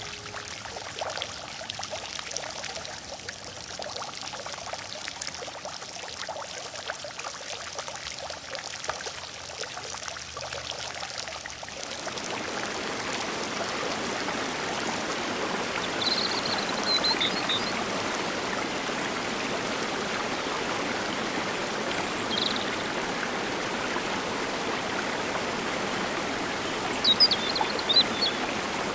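Flowing stream water, a steady rush that becomes louder and fuller about twelve seconds in. A few short high chirps come over it later on.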